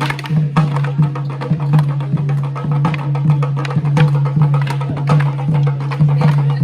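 Percussive music: sharp wooden clacks and drum strikes in a steady beat, about two strong strikes a second with lighter ones between, over a steady low hum.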